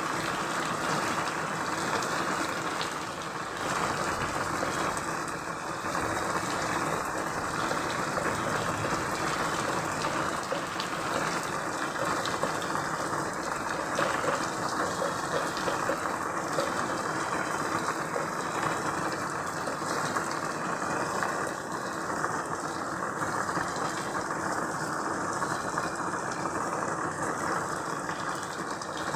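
Steady heavy rain: a dense, even hiss with many small drop ticks through it and no let-up.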